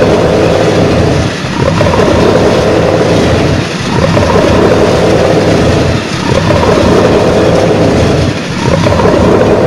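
Loud rumbling of a train sound effect, dipping briefly and swelling again about every two and a half seconds.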